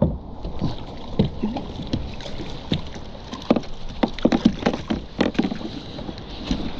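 Irregular knocks, clatters and water splashing on a kayak while a hooked barracuda is hauled in and handled.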